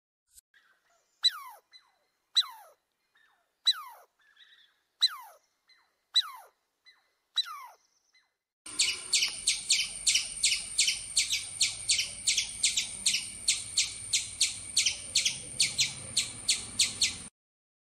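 High chirping calls: first six single chirps, each sliding quickly down in pitch, about one a second. Then, a little past the middle, a fast run of sharp high chirps, about four a second, that stops abruptly.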